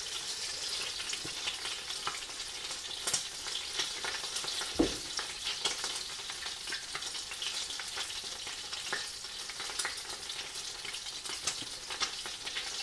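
Semolina-coated oysters sizzling and crackling in hot corn oil in a frying pan, a steady hiss with many small pops, and one knock about five seconds in.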